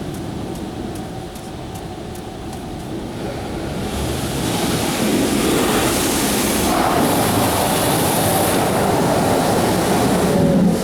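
Car wash running: a steady rush of water spray and machinery that grows louder about four seconds in.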